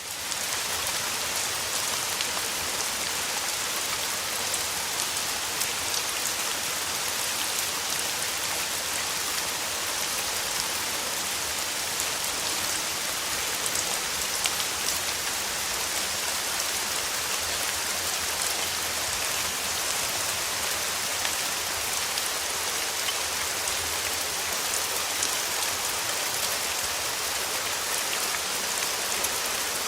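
Steady summer rain falling on a surface, an even hiss with scattered ticks of individual drops, rising in quickly from a brief gap at the very start.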